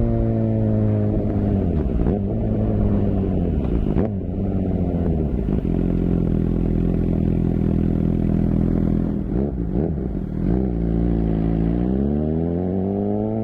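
Suzuki GSX-R750 inline-four engine and exhaust: the note falls early on, holds low and steady for several seconds, then climbs again near the end as the engine picks up revs.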